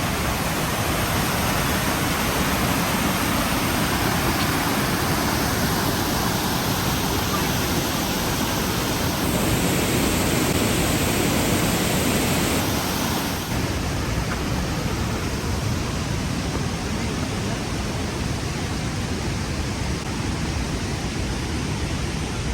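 Rhine Falls, a large waterfall, rushing as a steady, dense wash of noise. It swells a little in the middle, and its high hiss drops away somewhat about two-thirds of the way through.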